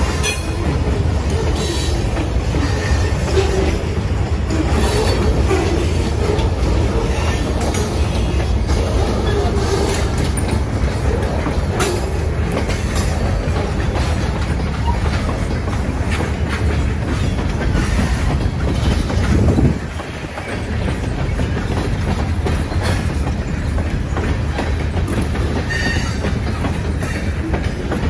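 Freight cars rolling past close by: a steady rumble of steel wheels on rail with repeated clicks as the trucks cross rail joints. The loudness dips briefly about twenty seconds in.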